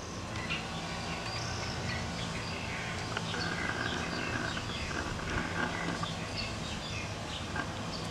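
Small birds chirping, with many short calls and one held note in the middle, over a steady low hum.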